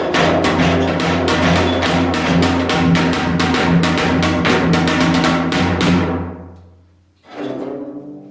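Music: fast, even drum strikes over steady low sustained tones, which fade out about six seconds in. Near the end a single new struck note rings and dies away.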